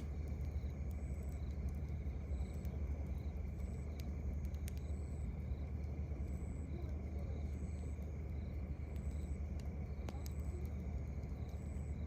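An insect chirping steadily at night, a short high chirp about every 0.7 seconds, over a continuous low rumble. A campfire gives a few sharp crackles, one about a third of the way in and one near the end.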